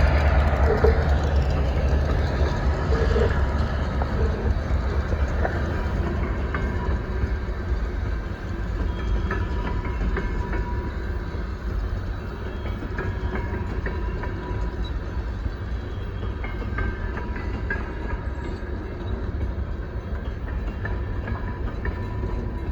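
Coal train rolling past: the diesel locomotive's low engine rumble is loudest at the start and fades over the first few seconds. The rolling of the coal cars follows, with scattered wheel clicks and a faint steady high tone.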